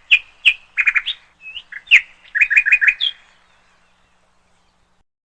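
A small bird chirping: a quick series of short, high chirps, some in fast runs of three or four, stopping about three seconds in.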